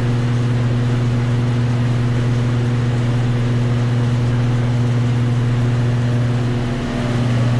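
Steady, loud machine hum with a strong low tone and a noisy rush above it, typical of a running ventilation fan or motor in a paint mixing room. There is a brief dip in level near the end.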